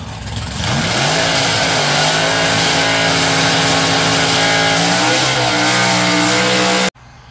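Engine revving and holding its pitch, rising about a second in and stepping up again near five seconds, then cutting off abruptly.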